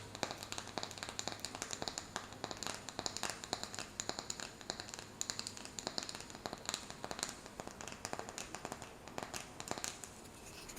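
Quick, irregular tapping on a wooden candle-jar lid: many light, sharp taps in close succession.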